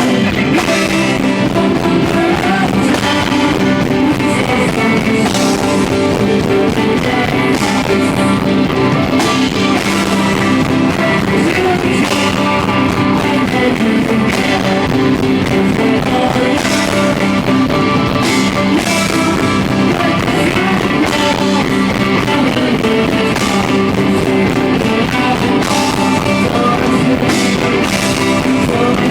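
Live rock band playing a song: electric guitars over a drum kit at a constant high level.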